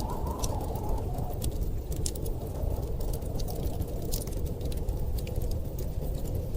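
Steady low rumble of storm wind, with a faint wavering whistle in the first second, under the scattered sharp crackles and pops of a wood fire.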